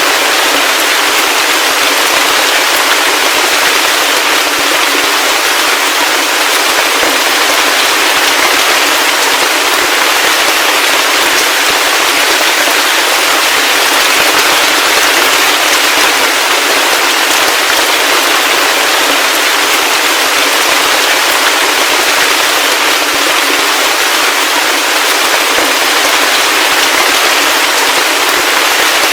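Heavy rain falling steadily, a dense, even patter of countless drops with no pauses.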